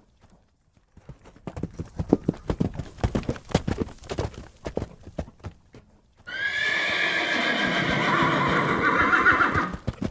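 Horse hooves clip-clopping in an irregular rhythm for a few seconds after a brief silence, then a horse neighing loudly in one long, wavering call of about three and a half seconds that ends just before the close.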